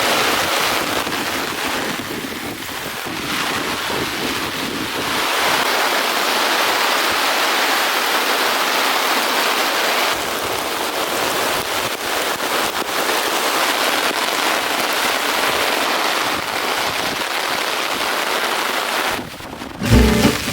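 Heavy rain pouring steadily. The rain drops away briefly near the end and music begins.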